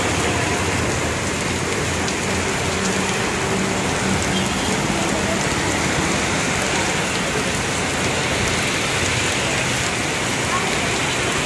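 Heavy rain pouring onto a wet road and parked motorcycles: a steady, even hiss.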